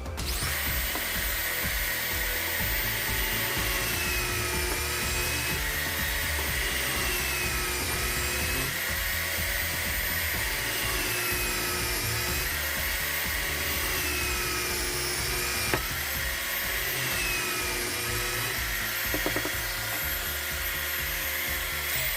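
Electric hand drill running in a homemade drill stand. Its pitch sags and recovers every couple of seconds as it is loaded, and it is switched off at the very end, winding down.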